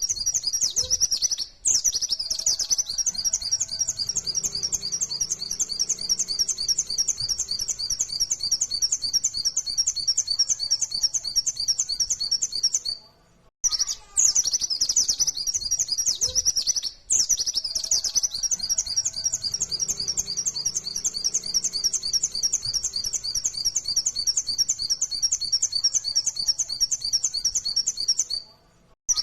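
White-eye (pleci, Zosterops) singing a long, fast chattering song of rapidly repeated high notes. The song comes in two long phrases of about eleven seconds each, with a short break a little after one second and a pause of about a second near the middle.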